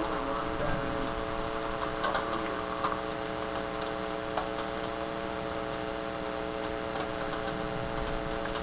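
Heavy rain falling steadily, with scattered sharp ticks of drops striking a hard surface, over a steady hum.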